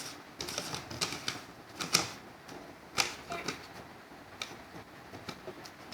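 Irregular light clicks and taps, a few a second, with two sharper ones about two and three seconds in.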